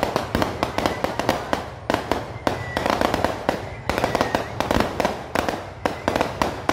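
Firecrackers going off in a rapid, continuous string of sharp bangs and crackles, coming in clusters several times a second.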